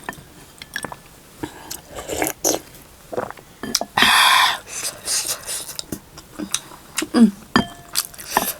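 Close-miked eating: scattered wet clicks and smacks of chewing, with a louder hissing burst about half a second long about four seconds in.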